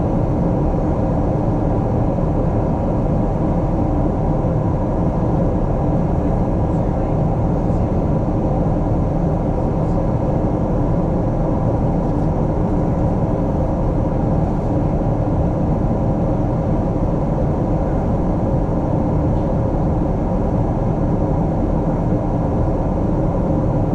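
Steady cabin noise inside a Boeing 777-300ER climbing after takeoff: an even, unbroken rush of airflow and GE90 engine noise, strongest in the low range, with a few faint steady tones.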